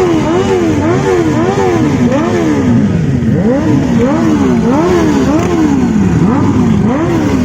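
Motorcycle engine being revved over and over, the throttle blipped about once a second so the note rises and falls back each time, a few of the revs held a little longer.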